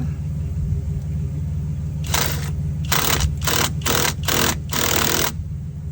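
Skil brushless impact driver run in six short bursts about two seconds in, each a third to half a second long, tightening a battery terminal bolt. A steady low engine-like hum runs underneath.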